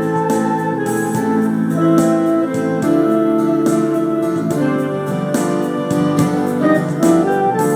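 Yamaha Genos arranger keyboard playing a melody over held chords in an organ/electric-piano voice, with the keyboard's drum accompaniment keeping a steady beat.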